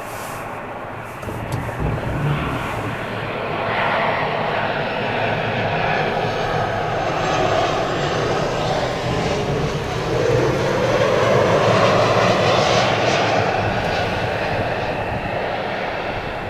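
Boeing 737-800 jetliner's CFM56 turbofan engines roaring as the aircraft passes, growing louder to a peak about twelve seconds in, then easing off slightly.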